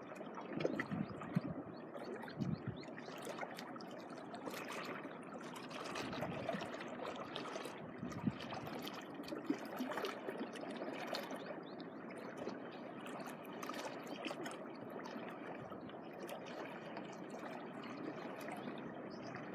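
Small waves lapping and trickling at the shoreline: a steady wash of water with scattered faint clicks.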